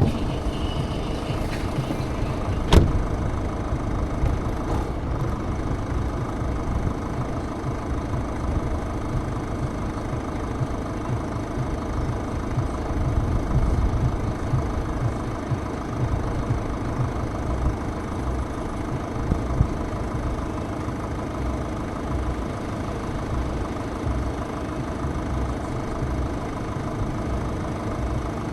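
High wind buffeting the microphone: a steady, fluctuating low rumble with a faint constant hum, and one sharp click about three seconds in.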